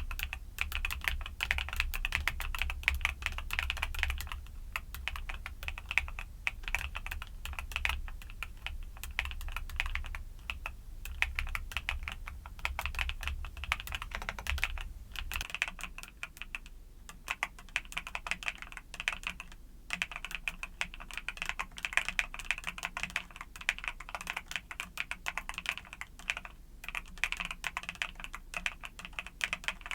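Mechanical keyboard with YUNZII Cocoa Cream switches being typed on steadily, a quick run of key clicks with a few brief pauses.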